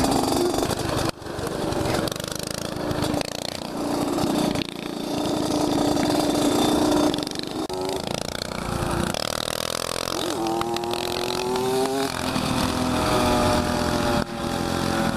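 Small off-road motorcycle engines, a Honda CR80 dirt bike and a Coleman CT200U minibike, running hard on the road, revving up and easing off several times as they accelerate and shift.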